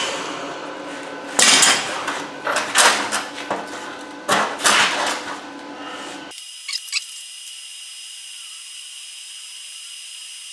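Irregular metallic knocks and clanks of clamps and tools worked against a steel frame, about seven strikes over the first few seconds. About six seconds in, this gives way abruptly to a quieter steady high-pitched hum with a couple of faint ticks.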